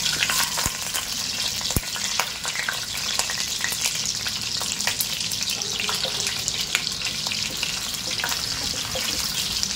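Potato wedges and whole boiled eggs sizzling and crackling in hot oil in a pan, with a wooden spatula stirring and turning them now and then.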